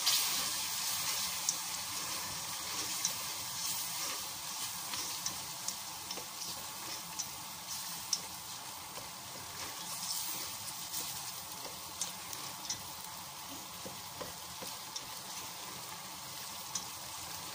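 Onion, ginger-garlic and spice masala sizzling steadily as it fries in a stainless steel pot, with a little water added so it does not stick. A slotted spatula scrapes and clicks against the pot as it stirs.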